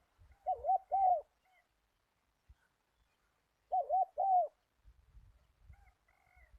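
A dove cooing: two short phrases about three seconds apart, each a quick run of wavering, up-and-down notes. Faint small-bird chirps come in near the end.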